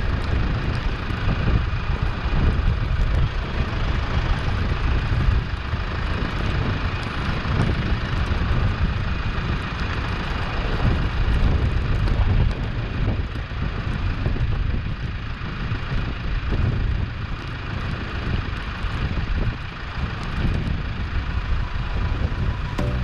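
New Holland T5 tractor's diesel engine running steadily as it works its pallet forks.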